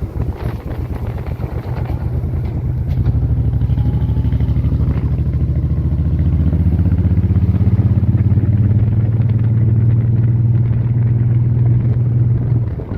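Motorcycle engine running under way, a steady low drone that grows louder about three seconds in and eases off near the end.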